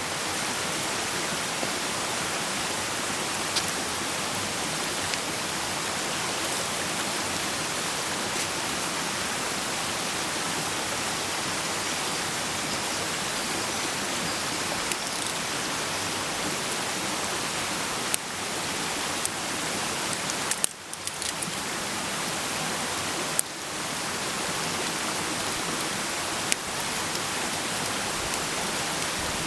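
Food frying in a pan over a campfire: a steady, dense sizzle with occasional sharp pops.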